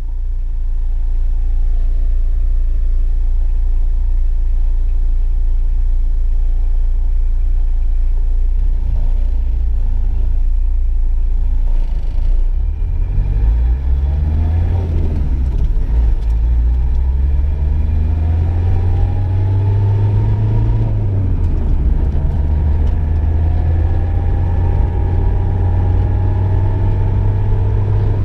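Volkswagen Golf II driving, heard from inside the cabin: a steady low rumble of engine and road, then from about halfway the engine note rises and falls several times as the car accelerates.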